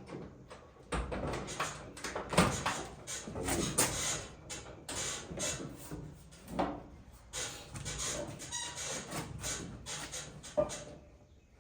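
Irregular metal knocks, clanks and scraping from hand work with tools on a truck cab's door striker, stopping shortly before the end.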